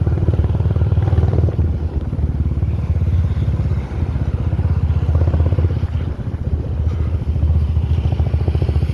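Motorcycle engine running steadily while riding, with a brief dip about four seconds in.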